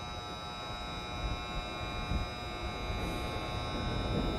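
A Toei 5300-series electric train standing at the platform, its on-board electrical equipment giving off a steady, many-toned electric hum over a low rumble.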